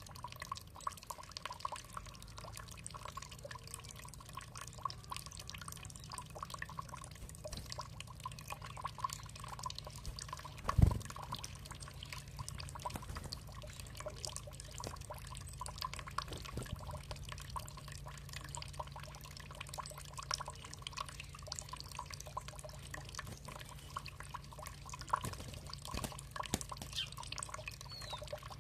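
Water dripping and trickling steadily, with many small irregular drips over a low running-water rumble. One louder thump about eleven seconds in.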